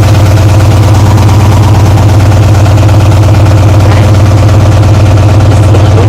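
Class 66 diesel locomotives idling close by, their EMD two-stroke engines giving a loud, steady low throb.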